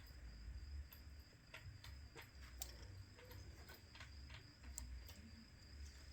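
Near silence: a few faint, scattered light ticks and taps from small-scale handling while glue is applied to a phone, over a faint steady high-pitched whine.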